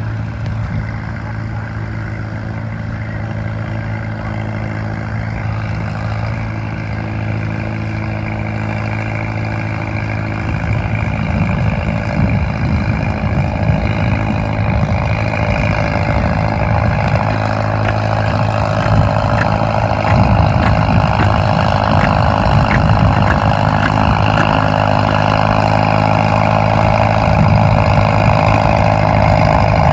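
Farmall M tractor's four-cylinder engine running steadily under load in a tractor pull, growing gradually louder.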